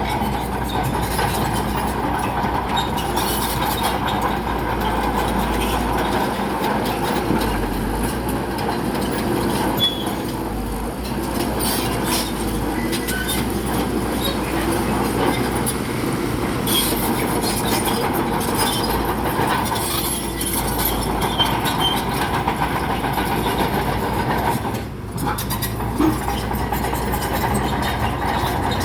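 Bulldozer at work pushing rock: its diesel engine runs steadily under load while the steel tracks clank and rattle, with scattered sharp knocks throughout.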